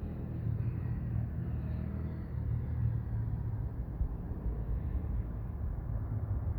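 Steady low background rumble with no distinct events; no thunder is heard.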